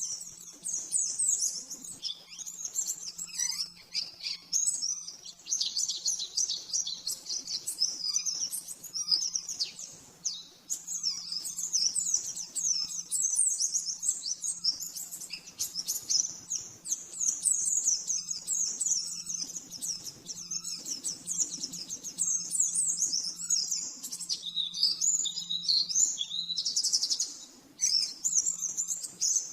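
Pleci (white-eye) singing a fast, near-continuous string of high chirps and trills in rapid-fire 'nembak' style. It breaks only briefly around a third of the way in and near the end. A faint steady low hum runs beneath.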